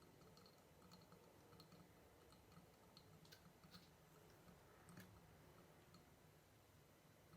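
Near silence broken by faint, irregular small clicks and crackles of crunchy slime being worked by hand.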